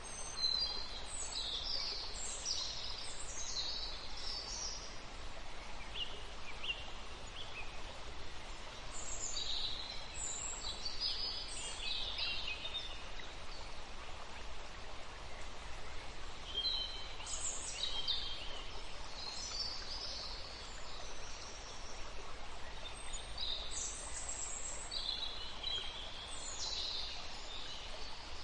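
Birds calling: clusters of short, high chirps that come and go every few seconds over a steady background hiss.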